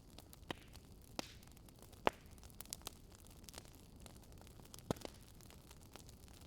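Wood fire crackling faintly, with irregular sharp pops and snaps over a soft hiss; the loudest pop comes about two seconds in.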